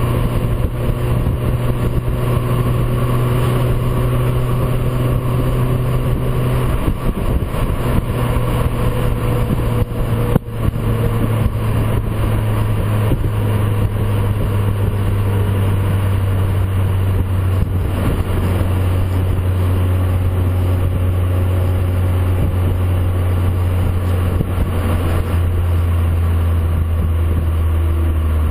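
VW Golf 4's exhaust through a JOM stainless-steel rear silencer, the engine droning at a steady note. About a quarter of the way through the note steps down in pitch, then holds lower and sinks slowly near the end.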